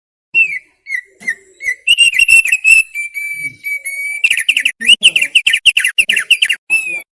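Thick-billed heleia (opior paruh tebal) singing: a string of clear whistled notes, then a held whistle, then a fast run of repeated whistled notes over the last few seconds.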